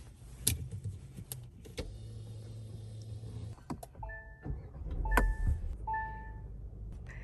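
Car interior sounds: several sharp clicks, a short steady electric motor whir like a power window running, then a few short electronic chime tones.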